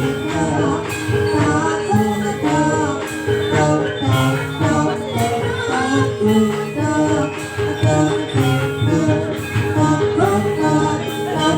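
Live jaranan gamelan music for a trance dance: a wavering melody line over steady drumming and jingling percussion.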